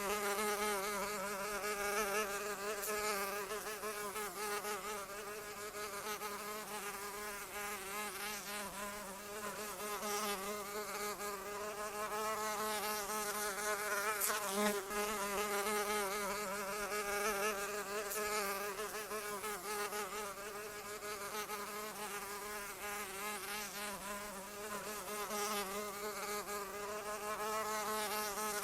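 Continuous buzzing of a flying insect's wings, a steady whine with many overtones. It wavers slightly in pitch and swells and fades in loudness every few seconds.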